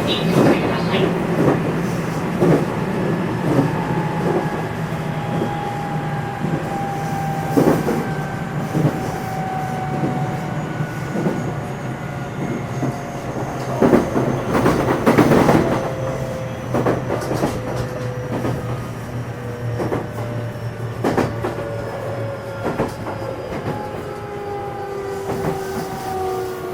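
JR West 227 series motor car running: the whine of its Hitachi IGBT VVVF-driven traction motors falls slowly in pitch as the train slows, over the steady rumble of wheels on rail, with a few rail-joint clacks.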